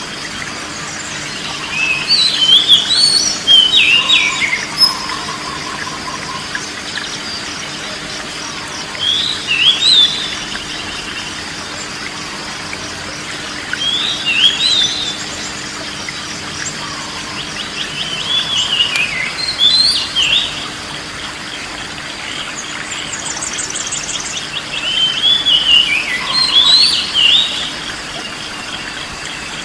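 Oriental magpie-robin (kacer) singing short, varied whistled phrases of rising and falling notes, a burst every four to six seconds, over a faint steady background of high chirping.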